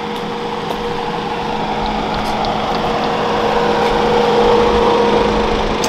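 Car engine running nearby, a steady hum whose rumble swells gradually and eases off near the end.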